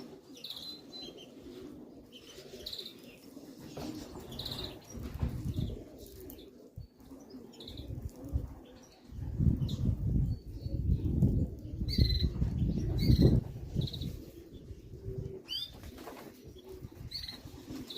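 Pigeon wings flapping, loudest for several seconds in the middle, over pigeons cooing and short high bird chirps.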